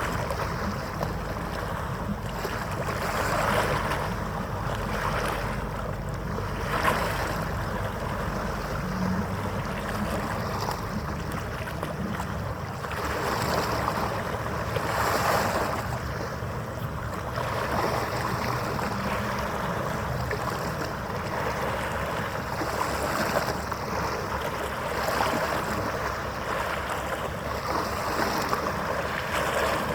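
Water lapping and washing in surges every few seconds, with wind and a faint steady hum underneath.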